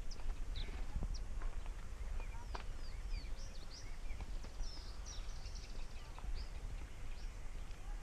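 Birds chirping and calling, a scatter of short high chirps and quick whistles, over a steady low rumble.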